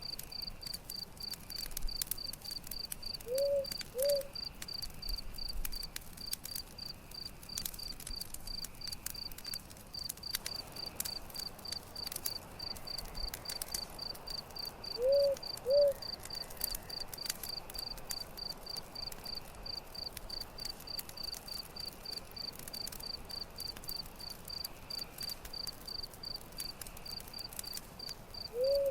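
Campfire crackling with scattered sharp pops, under a cricket chirping steadily at about three chirps a second. A low two-note call sounds three times, roughly every twelve seconds.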